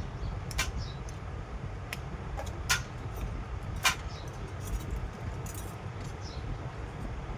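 Steady low rumble with a few sharp clicks and light taps scattered through it, the loudest one about four seconds in.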